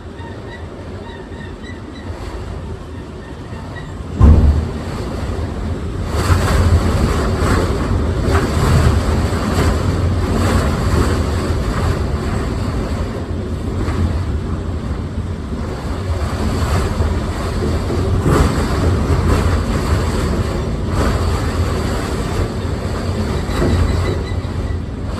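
Strong storm wind buffeting the microphone: a heavy, low rumble that surges in gusts. There is a sharp bang about four seconds in, and the wind grows louder about two seconds later.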